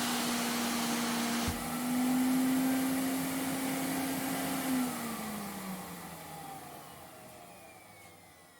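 Vacuum cleaner motor running with a steady hum and hiss, with a click about a second and a half in. From about five seconds in it winds down, its pitch falling as the sound fades away.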